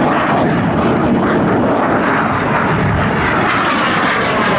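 Red Arrows' BAE Hawk T1 jets, their Adour turbofan engines making a loud, steady rushing noise with a sweeping shift in pitch as they fly past.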